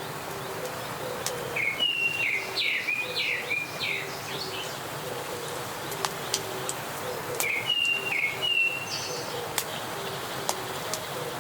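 Forest birdsong: a bird sings a rapid run of chirping notes about two seconds in and a shorter run about eight seconds in. Under it are faint repeated lower notes and a few scattered light clicks.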